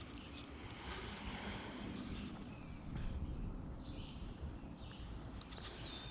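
Quiet outdoor ambience at a creek with a faint low rumble, and a thin high whistle that dips slightly near the end.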